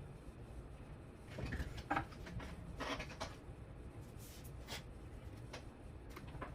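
Light clicks, taps and rubbing of small helicopter parts and wiring being handled by hand, in a few short clusters, the loudest about two seconds in.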